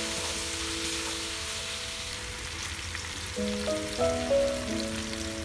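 Pieces of elephant apple frying in mustard oil in a wok, with a steady sizzle.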